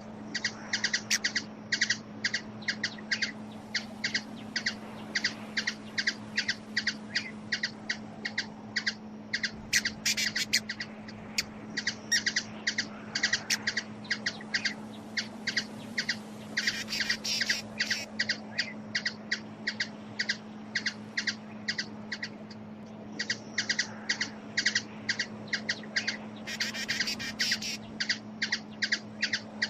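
Hummingbird chip calls: short, sharp high notes repeated about three times a second, bunching into faster runs now and then, over a steady low hum.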